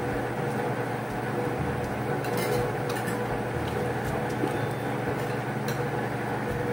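Steady background hum with a few faint clinks of spoons against bowls and dishes at a meal table.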